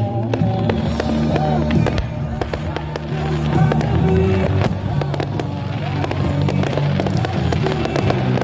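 Fireworks going off in a rapid series of bangs and crackles, over music with low held notes.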